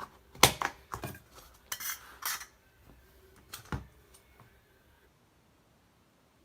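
A utensil clinking and knocking against a container, about eight sharp strikes spread over the first four seconds, dying away soon after.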